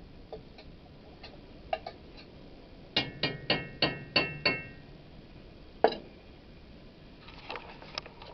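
A utensil knocked against a metal cooking pot about six times in quick succession, each strike ringing briefly, then one more knock a second or so later, with faint clinks of cookware around them.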